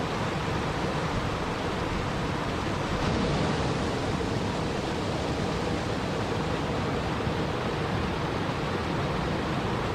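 Steady rushing of water, an even noise with no separate drops, splashes or other events.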